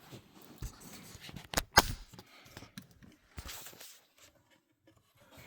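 Scattered clicks and knocks of hands working the glove box's plastic parts, the loudest a sharp knock a little under two seconds in.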